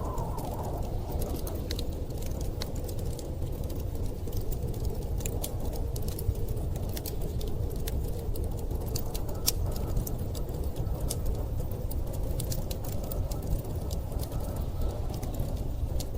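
Wood fire crackling with many irregular small pops over a steady low rumble of storm wind, with a faint wavering howl of wind at the start and again in the second half.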